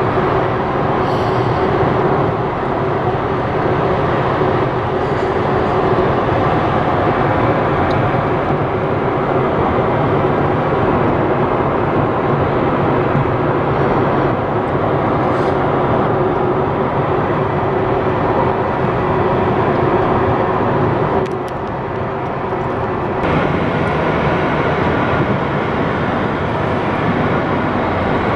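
Steady road and engine noise of a car driving at speed, heard from inside the car, with a faint steady hum. It dips for a couple of seconds about twenty-one seconds in, then returns.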